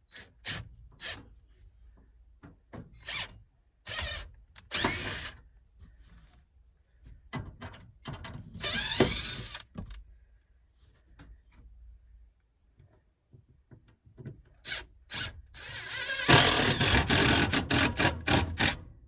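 Power drill driving screws through a metal strap to fasten the top of an air-conditioning coil, in short runs, one spinning up in pitch. Clicks and knocks of handling come in between, and a longer, louder run of driving comes near the end.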